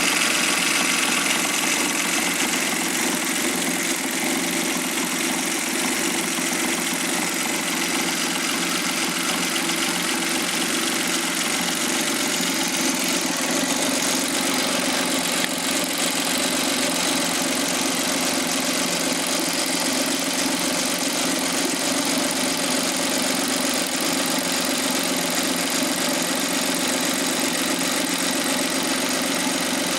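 Suzuki Jimny JB23W's K6A three-cylinder 660 cc engine idling steadily, with an even, unchanging tone.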